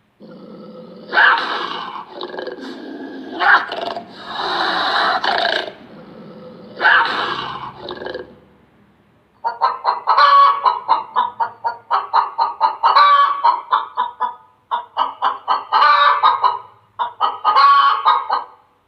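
Chickens calling: a few harsh, drawn-out calls about a second long each, then, after a short pause, a hen's rapid clucking cackle of several clucks a second in repeated bursts.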